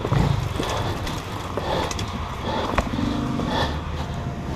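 Off-road motorcycle engine running at low revs, with scattered knocks and clicks as the bike goes over rough ground, and a sharp knock near the middle.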